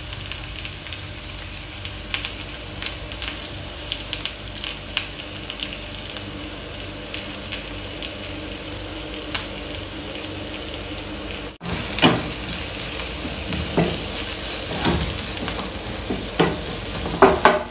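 Onions, ginger and garlic sizzling in oil in a frying pan, with a steady hiss and scattered crackling pops. After a sudden break about two-thirds of the way through, the sizzle is louder and a wooden spoon stirs through the pan.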